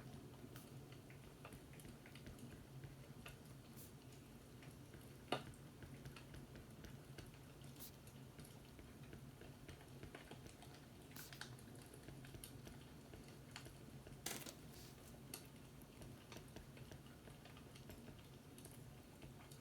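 Faint fireplace crackling: scattered irregular pops and snaps, with a louder pop about five seconds in and another around fourteen seconds, over a low steady hum.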